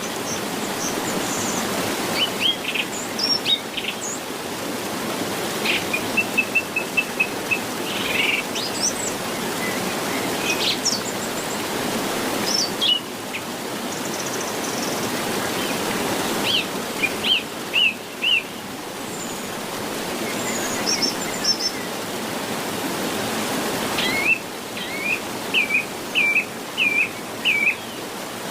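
Several wild birds chirping and calling, with short whistles, a quick trill, and a run of repeated hooked whistles near the end, over a steady rushing background noise.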